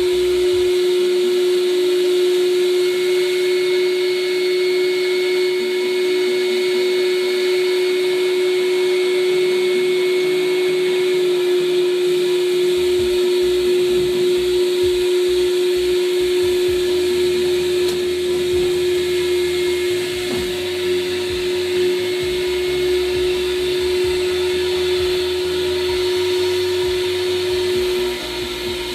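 Noah Flood Control Machine, a wet vacuum extractor, running steadily with a constant whine over a rushing noise as it sucks up water. It gets slightly quieter near the end.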